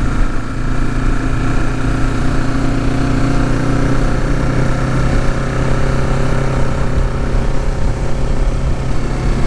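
2023 Kawasaki Ninja 650's parallel-twin engine running at a steady speed while riding, its pitch holding level.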